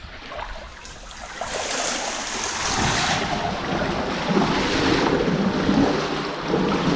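Water sloshing and splashing as someone wades into a flooded slate-mine tunnel, growing louder after the first second or so and then staying steady.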